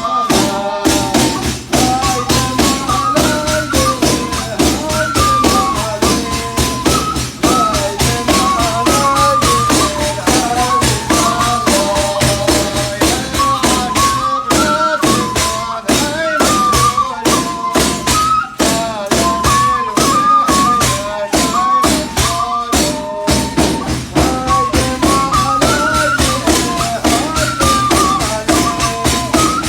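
Yazidi sacred music: daf frame drums beaten in a fast, steady rhythm under a wavering melody played on the shibab, the Yazidi end-blown flute, as used for the qewl hymns.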